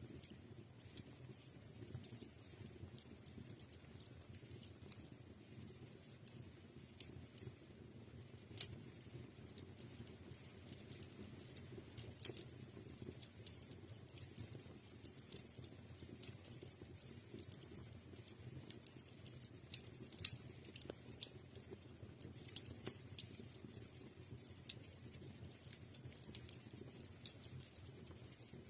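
Fire burning in a fireplace: a low, steady rush of flame under constant irregular crackling, with a few louder pops.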